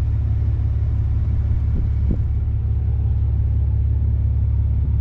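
Cummins diesel truck engine idling, a steady low rumble.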